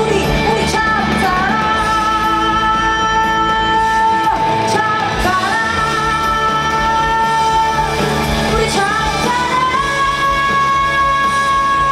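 Female pop singer performing live, holding three long notes with vibrato over a band backing, heard through a concert PA.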